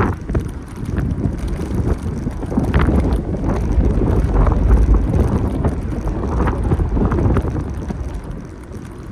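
Wind buffeting the microphone of a moving bicycle, a heavy rumble that peaks midway and eases near the end, with scattered rattles and knocks from the bike.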